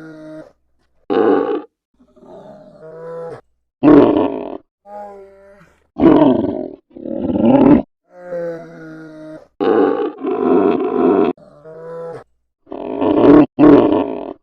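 Polar bear vocalizing: short, harsh growls alternate with quieter drawn-out moaning calls that have a clear, wavering pitch, about eight growls in all, separated by brief silent gaps.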